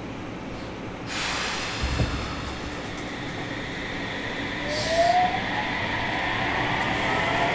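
Sendai Subway 1000N-series train pulling away from a station, heard from inside the car. A rush of noise comes about a second in, then a low thump, then the inverter and traction motors' whine rising in pitch as the train picks up speed.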